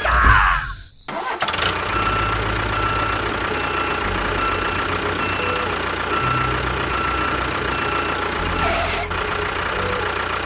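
Tractor engine starting about a second in, then running steadily at idle with a pulsing low rumble. A faint beeping repeats over it throughout.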